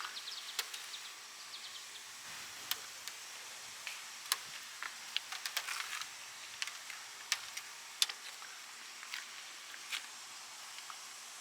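Outdoor summer ambience: a steady high hiss with a faint constant whine, typical of insects, broken by many short, sharp high chirps or ticks at irregular intervals.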